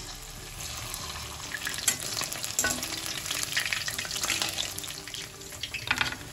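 Batter-coated chicken pakoras deep-frying in hot vegetable oil in a wok, a steady sizzle and crackle of the oil, with a few sharp clicks from the pan.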